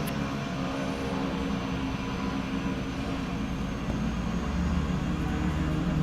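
Light propeller plane's engine running steadily for takeoff, a low drone that grows slightly louder toward the end.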